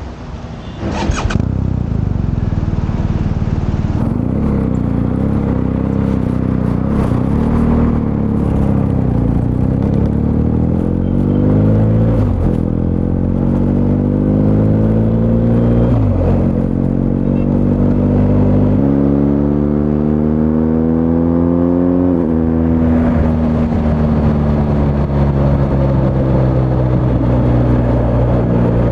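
BMW R1250 GSA boxer-twin engine through an Akrapovič titanium slip-on exhaust, coming in loudly about a second in, then accelerating through the gears: the exhaust note rises and drops back at each of several upshifts before settling into a steady cruise.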